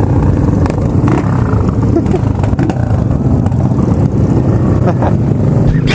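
Motorcycle engines running on the move in traffic: a steady, dense low rumble.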